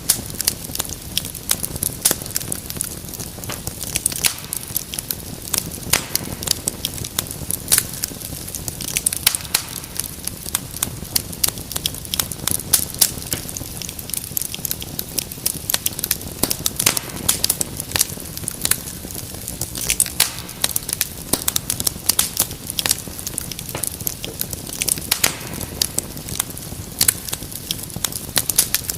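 Wood fire crackling and popping in a fireplace: dense, irregular snaps over a steady low hiss of burning.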